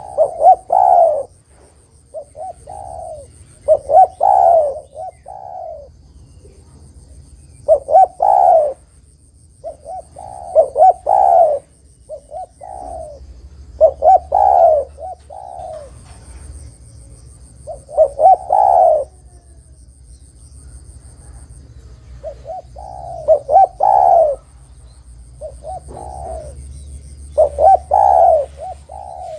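Spotted dove (tekukur) cooing loudly in short repeated phrases of a few notes each, a new phrase every two to three seconds: the vigorous, 'gacor' calling used as a lure to make other doves answer.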